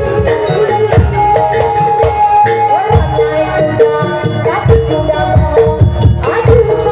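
Live traditional folk music played loud: drums beating steadily under a repeated, held melody note.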